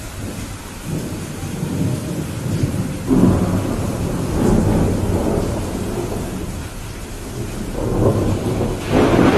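Steady heavy rain with rolling thunder. A deep rumble builds about a second in and peaks around three seconds in, and another rumble swells near the end.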